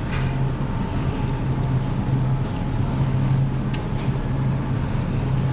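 Steady low mechanical hum of a supermarket's background, with a thin constant high tone over it and a couple of faint clicks partway through.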